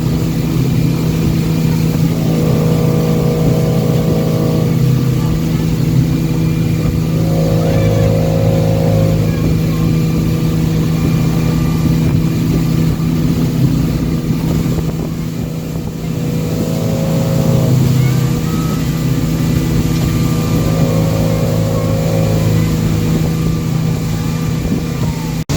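Boat engine running steadily, with a whining tone that comes in four times for about two seconds each. The whine is the new noise the boat makes since its repair when the wheel is turned hard to one side.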